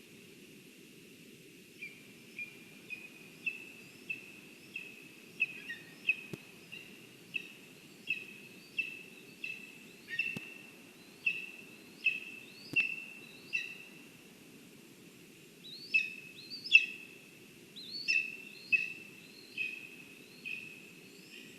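Black woodpecker calling a long series of loud, ringing single notes, about one and a half a second, starting about two seconds in, over a steady low background rumble. A few faint clicks fall among the calls.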